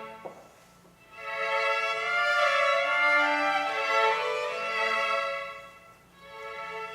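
Violin playing a phrase of long, held notes. It starts after a short pause, with a small click just before, and eases off briefly near the end before going on.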